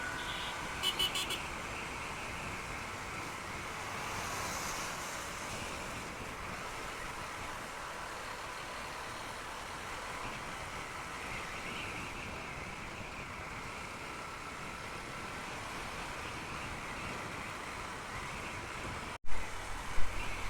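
Steady rush of wind and road noise from a motorcycle underway, with a few quick clicks about a second in. Near the end the sound cuts out briefly and a loud thump follows.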